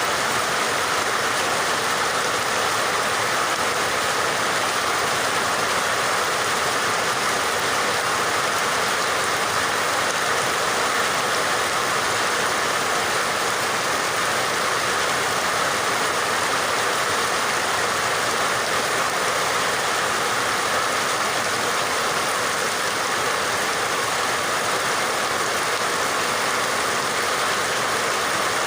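Steady heavy rain, an even hiss of falling water with no breaks or separate drops standing out.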